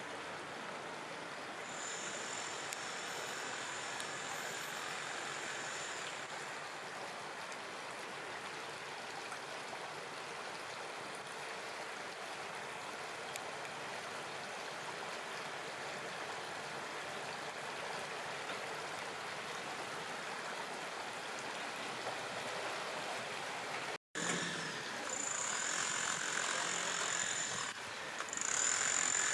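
River water flowing over concrete blocks: a steady rushing noise, with a thin, steady high tone in two stretches. The sound cuts out for an instant near the end and comes back louder.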